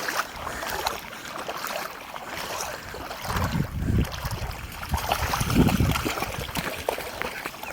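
Splashing and sloshing through shallow floodwater, with wind rumbling on the microphone in two gusts, about three and five seconds in.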